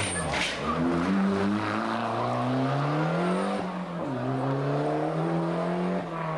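Rally car engine accelerating hard. Its pitch climbs for about three seconds, drops sharply at a gear change about four seconds in, then climbs again in the next gear.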